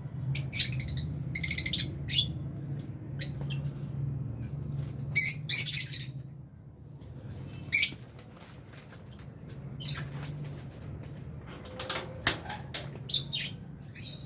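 A flock of lovebirds giving sharp, high-pitched chirps and squawks in short scattered bursts, with gaps between them. A low steady hum runs underneath for the first half and returns briefly later.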